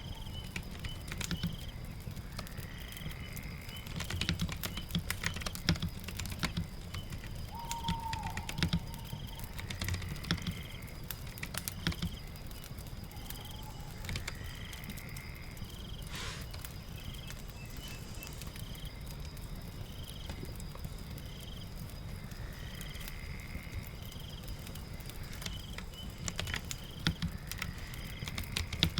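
Typing on a computer keyboard in bursts of clicks, busy in the first dozen seconds, sparse in the middle and busy again near the end, over a steady patter of rain.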